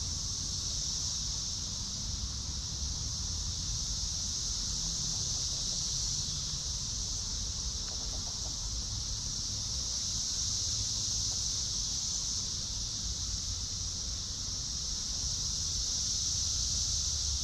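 Steady insect chorus outdoors: a continuous high buzz that swells and eases gently, over a low rumble.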